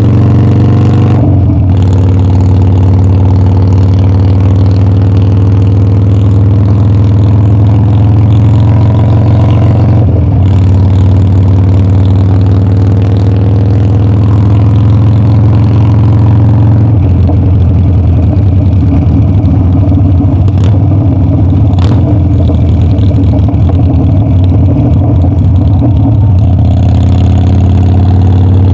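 Harley-Davidson Dyna's V-twin engine under way, revs climbing and dropping sharply at two gear shifts early on. It then turns rough and loping at low revs for a stretch before climbing again near the end.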